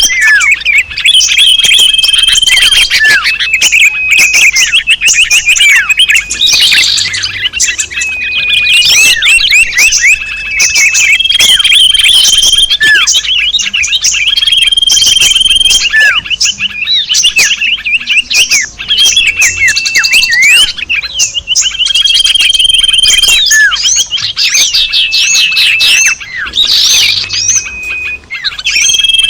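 Bird-lure recording of many small songbirds calling at once: a dense, loud mix of high chirps, short whistled notes and fast trills with no pauses.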